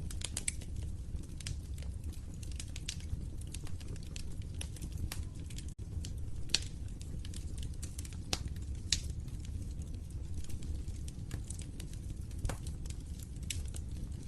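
Wood fire crackling in a fireplace: irregular sharp pops and snaps over a steady low rumble of burning, with a few louder pops near the middle.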